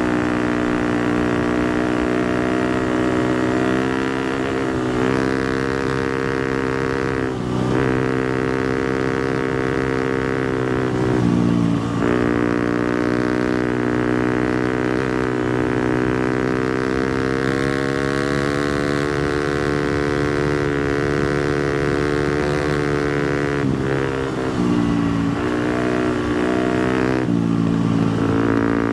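250cc four-stroke single-cylinder dirt bike engine running under way at steady revs. About four times the pitch briefly drops and climbs back up.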